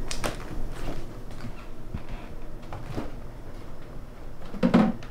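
Household handling sounds: footsteps and a refrigerator door being opened, with scattered knocks and clicks and a louder thump near the end.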